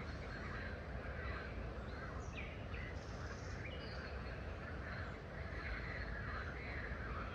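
Wild birds chirping and calling, many short calls overlapping, over a steady low rumble of outdoor background noise.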